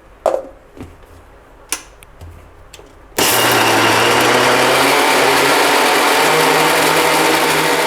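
A few light knocks, then about three seconds in an electric mixer grinder (mixie) starts abruptly and runs steadily at full speed, grinding soaked whole green gram with green chillies and salt into a coarse batter. Its motor hum steps up a little in pitch partway through.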